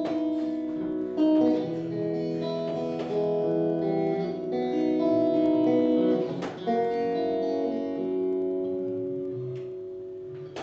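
Guitar playing the instrumental intro of a cheerful song: strummed chords left ringing, changing every second or two, with a fresh strum about six and a half seconds in.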